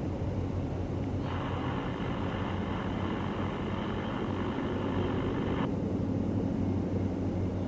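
Diesel locomotive engine running with a steady low rumble. About a second in, a hiss starts; it lasts about four seconds and cuts off suddenly.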